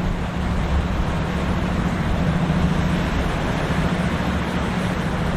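Steady drone of a boat engine over the wash of waves and wind noise, with an even hum running throughout.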